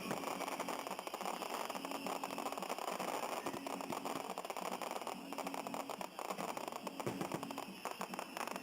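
Fireworks crackling: a dense, continuous run of rapid small pops, with faint music underneath.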